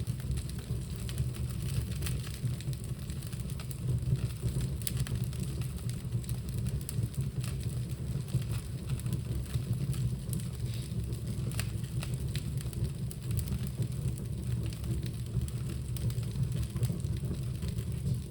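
Fire burning vigorously in a home fireplace: a steady low rumble of flames with scattered crackles and pops.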